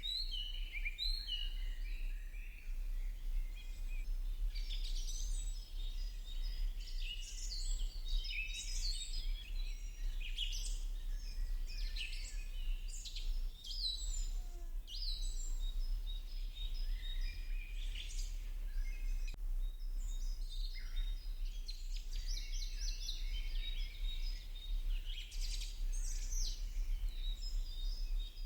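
Many small birds chirping and singing in a continuous, overlapping chorus of short, high calls, over a steady low hum.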